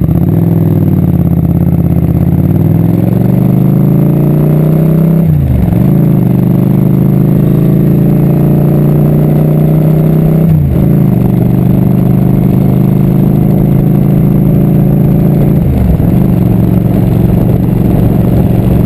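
Motorcycle engine under way, its pitch climbing as it pulls. It shifts up a gear three times, about five seconds apart, each shift marked by a brief drop in pitch before it climbs again.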